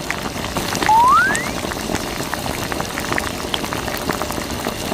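Water splashing and trickling steadily onto a toy tractor being washed in a miniature model, with one short rising squeak about a second in.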